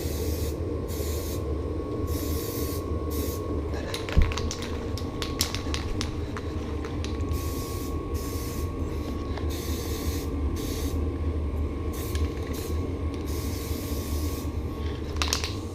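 Repeated short bursts of spray hissing from a spray nozzle as a bicycle part is doused with cleaner, over a steady low hum, with a few clicks partway through.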